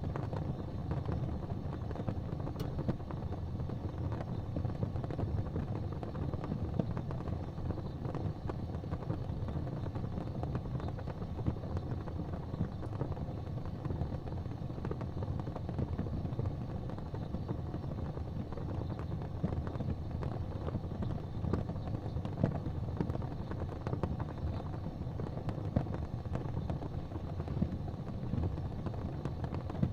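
Wood fire crackling in a fireplace: a steady low rumble with frequent small pops scattered throughout.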